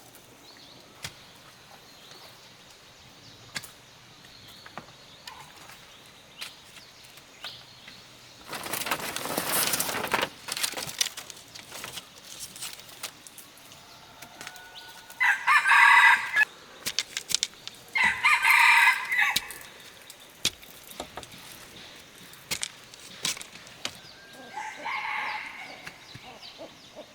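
A rooster flaps its wings in a short burst, then crows loudly twice, each crow about a second and a half long, with a fainter call near the end.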